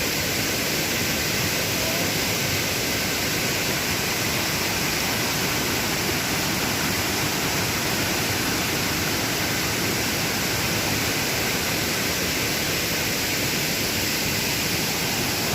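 Waterfall pouring, a steady loud rush of falling water with no break or change.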